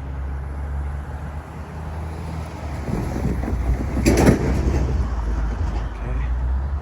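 Low rumble of road traffic going past, swelling louder about four seconds in as a vehicle passes close.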